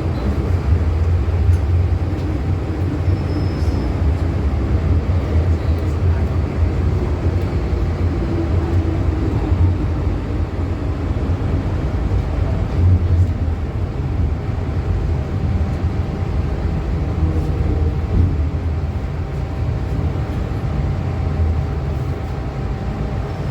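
MTR M-Train electric subway car running in the tunnel, heard from inside the carriage: a steady low rumble of wheels on rail with a thin, steady hum above it.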